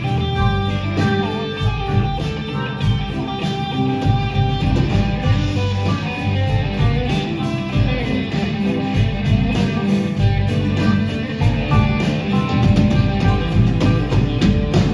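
Live rock band in an instrumental break, with guitar playing over bass and a steady drum beat.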